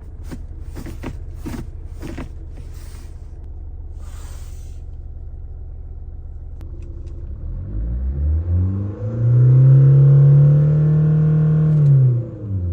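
2018 Kia Sportage's 2.0 turbo diesel engine idling, then revved up, held at high revs for a couple of seconds and let fall back near the end. A few sharp clicks sound over the idle in the first few seconds.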